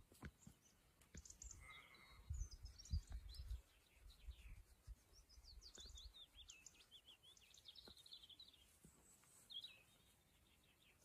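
Faint small birds chirping in quick, high rising and falling notes, busiest in the middle, with a low rumble on the microphone from about two to three and a half seconds in.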